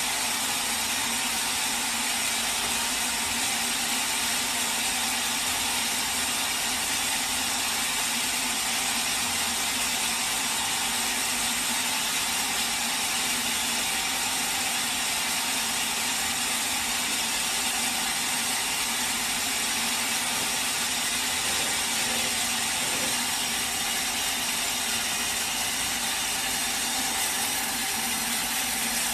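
Bandsaw sawmill running steadily, a continuous even mechanical noise with no breaks.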